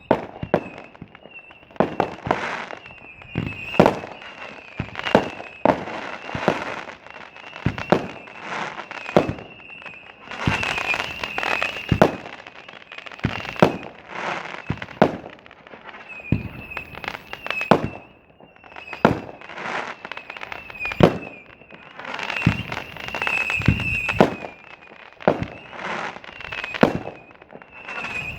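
Fireworks going off in a rapid series of sharp bangs, with dense runs of crackling twice, and a thin high wavering whine underneath.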